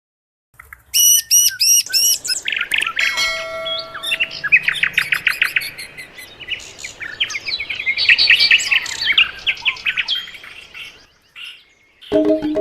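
Songbirds singing and chirping, a busy mix of quick repeated whistled notes and trills. Near the end, a Balinese rindik, a bamboo xylophone, starts playing struck notes.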